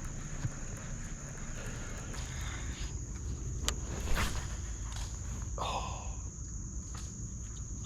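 A steady high-pitched insect drone, crickets or similar, over a low rumble, with scattered clicks and knocks, one louder about four seconds in, and a short harsh sound near six seconds.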